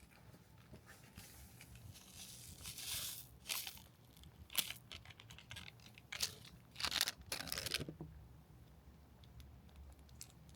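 Crinkly material being torn and crumpled in several short bursts over a low steady hum, with one sharp click in the middle.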